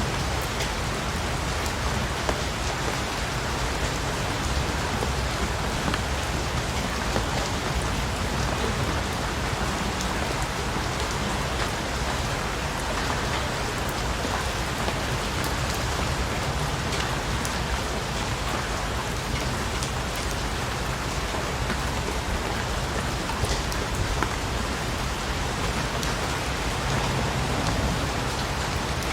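Steady rain falling, drops pattering on a surface, with a few separate drop ticks standing out now and then.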